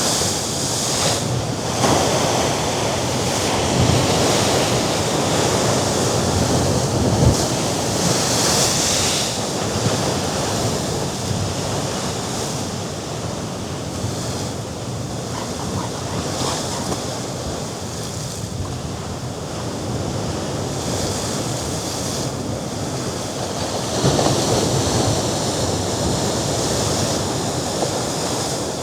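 Mediterranean sea waves breaking against the rocks below the cliffs: a continuous wash of surf that swells and eases, louder in the first few seconds and again near the end, with wind gusting over the microphone.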